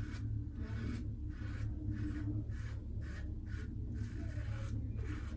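Double-edge safety razor (Karve stainless steel, fresh Voskhod blade) scraping through lathered stubble in a series of short strokes, about two to three a second.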